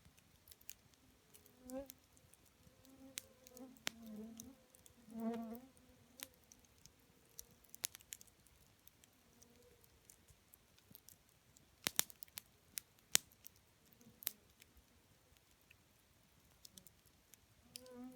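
Wood campfire burning, with scattered sharp crackles and pops from the burning wood. Behind them a faint buzzing hum comes and goes, swelling several times.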